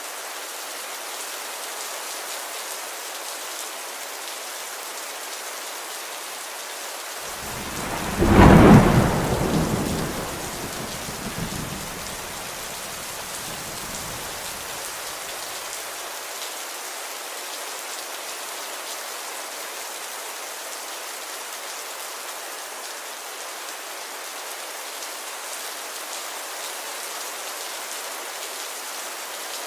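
Steady rain falling, with a single clap of thunder about eight seconds in that rumbles on and fades over the next several seconds.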